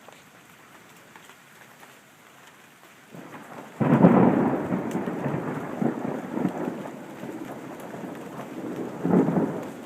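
Thunder over steady rain: a close clap cracks about four seconds in and rumbles on for several seconds as it fades, with a second surge of rumble near the end.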